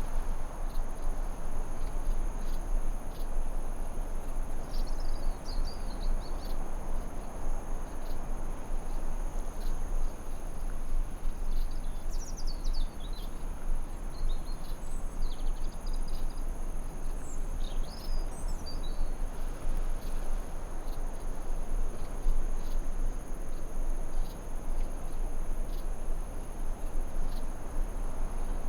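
Forest ambience: a steady high-pitched insect trill, like crickets, over a constant rushing noise, with a few short bird chirps scattered through the middle.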